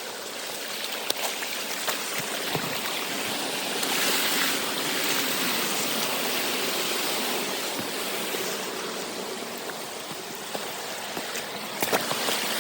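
Creek water running steadily in a steady rushing hiss, with a few faint clicks over it.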